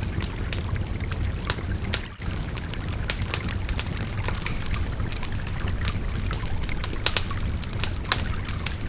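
Wood fire crackling with irregular sharp pops over the steady rush of a babbling river. The sound briefly dips about two seconds in.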